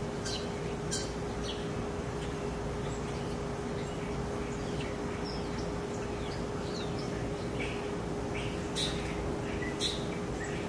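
Small birds chirping in short, scattered high notes, livelier near the end, over a steady hum and constant background noise.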